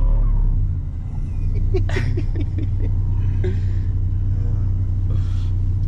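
Turbocharged Mazda MX-5 engine idling with a steady low rumble, with a few clicks and knocks about two seconds in.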